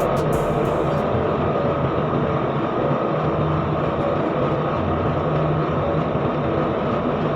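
Fishing boat's engine running steadily, a loud, even drone.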